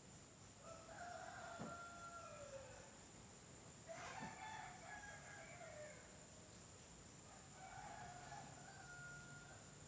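Three faint crowing calls like a rooster's, each about two seconds long, with held level notes.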